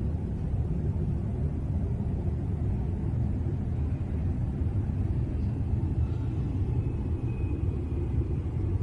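A steady low rumbling drone, with faint thin high tones joining in about six seconds in.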